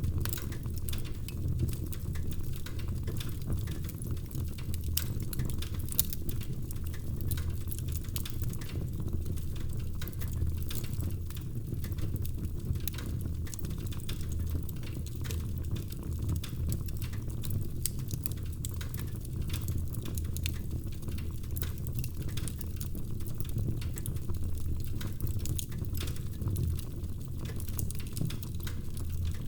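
Wood fire crackling in a fireplace: frequent small snaps and pops over a steady low rumble of the flames.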